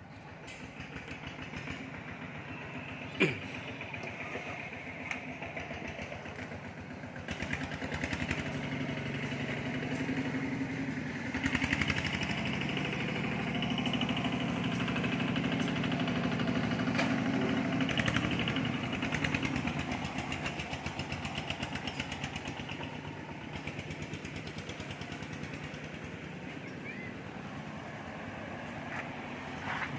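An engine running steadily with a fine rapid pulse. It grows louder about 11 seconds in and eases off after about 20 seconds, with one sharp click about 3 seconds in.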